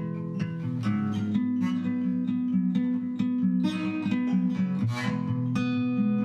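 Acoustic guitar music: picked notes over ringing bass notes, with a strummed chord about five seconds in, played on old, rusty strings.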